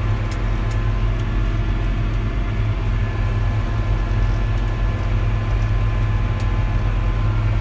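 John Deere tractor driving on the road at full throttle in top gear, about 43 km/h, heard from the cab: a steady low engine and drivetrain drone with a faint steady whine above it.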